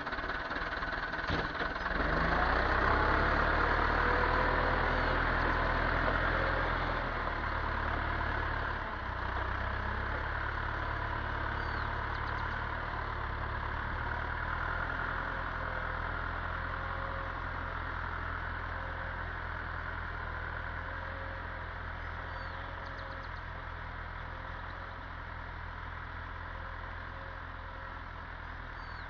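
Massey Ferguson 275 tractor's diesel engine running steadily under way, loudest in the first few seconds and then slowly growing fainter.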